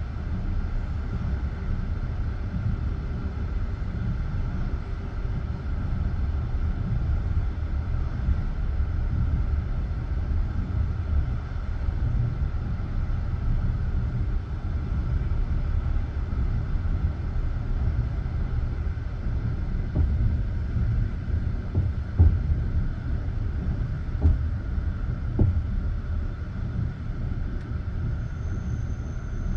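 Passenger train carriage running along the track, heard from inside: a steady low rumble of the wheels on the rails, with a few sharp knocks of the wheels about two-thirds of the way through.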